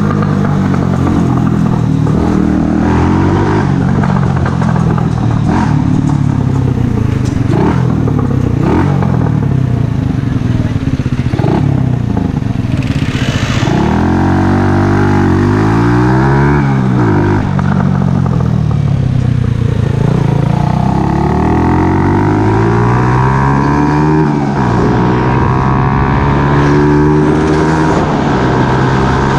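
Mash Café Racer 125cc single-cylinder engine running through a Megaton aftermarket exhaust. The revs rise and fall in the first half, then climb steadily twice, each time dropping off sharply.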